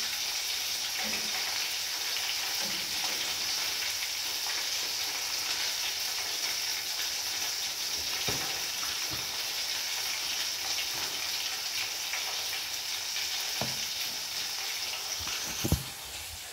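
Chicken frying in hot oil in a deep pan: a steady sizzle with a few faint clicks. Near the end there is a sharp knock, and the sizzle is fainter after it.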